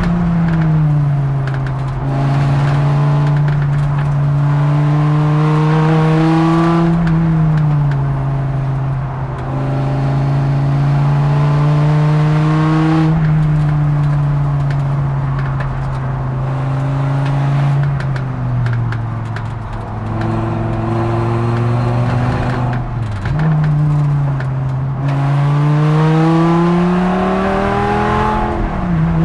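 Dodge Viper ACR-X's V10 engine under load on track, heard from inside the cockpit. Its pitch climbs under acceleration and drops several times at gear changes and braking.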